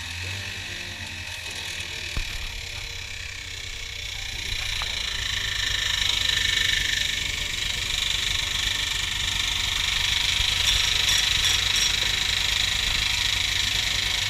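Snowmobile engine running steadily under way with a high hissing whine, growing louder about five seconds in.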